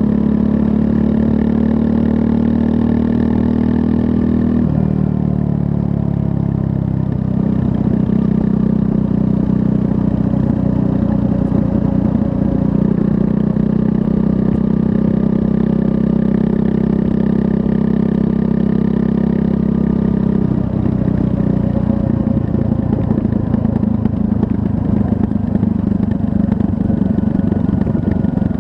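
Triumph Scrambler 400 X's 398 cc liquid-cooled single-cylinder engine running under way. It holds steady revs, drops in pitch about five seconds in, and settles again a couple of seconds later. From about twenty seconds in it runs rougher and less even.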